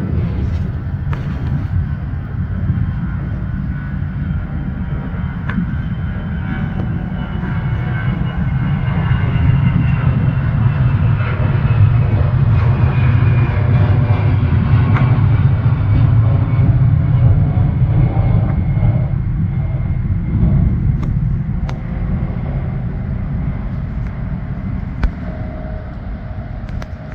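Jet airplane passing overhead: a loud rumble that builds to a peak about halfway through and then eases off, with a high whine slowly falling in pitch.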